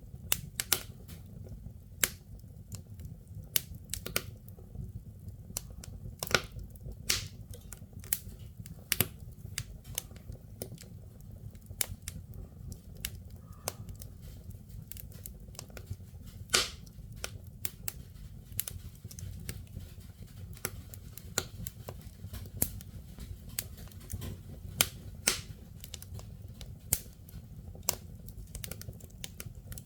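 Firewood burning in a fireplace, crackling with irregular sharp pops of varying loudness over a steady low rumble.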